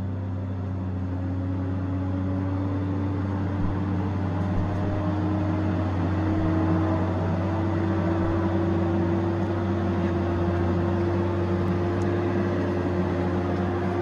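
Tigercat 870C feller buncher running steadily with a low engine hum. Over it a whining tone rises slowly in pitch and grows slightly louder.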